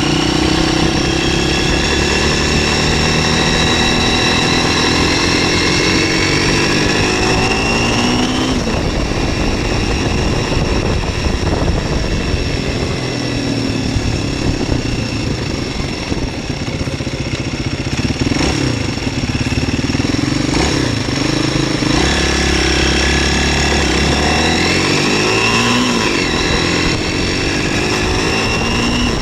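MZ 125 SX's small single-cylinder four-stroke engine pulling the motorcycle along, heard from onboard. The revs climb steadily for the first eight seconds, then drop away. They stay lower for a while, then rise again twice in the second half.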